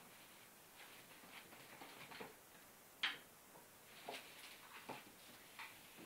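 Faint, scattered light clicks and taps, a few a second, with one sharper click about three seconds in.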